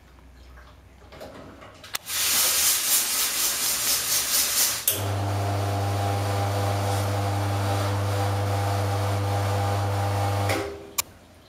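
Espresso machine steam wand being purged: a sudden sharp burst of hissing steam about two seconds in, which after a few seconds settles into a steadier hiss with a low hum under it. It is shut off near the end, followed by a single click.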